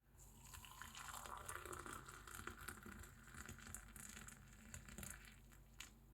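Near silence: faint room tone with a few soft scattered ticks.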